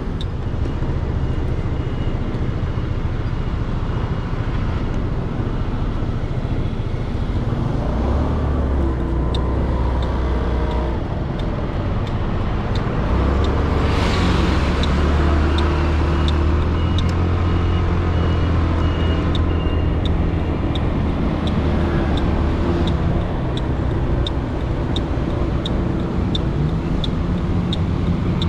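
Motorcycle riding heard from a helmet-mounted GoPro Hero 8 behind a foam wind-noise sponge: a steady low engine and road rumble with muffled wind noise, a louder rush of noise about halfway through, and a faint regular ticking through much of it.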